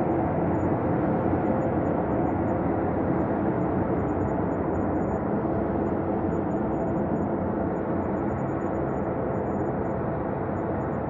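Synthesized ambient space drone: a steady, dark low rumble with faint held tones inside it, easing slightly quieter toward the end.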